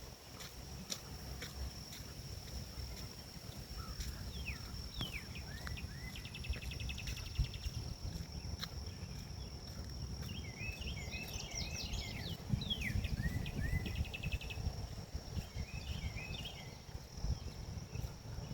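Forest ambience: a steady high insect drone, with songbird chirps and quick trills coming in bursts, busiest from about ten to fourteen seconds in. Underneath is a low rumble of wind on the microphone.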